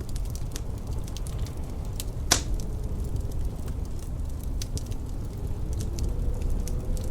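Wood fire crackling in a fireplace: scattered sharp pops and ticks over a steady low rumble, with one louder pop a little over two seconds in. A faint wind howl comes in near the end.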